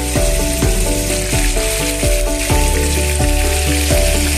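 Marinated chicken pieces sizzling as they fry in oil in a pan, a steady hiss, over background music.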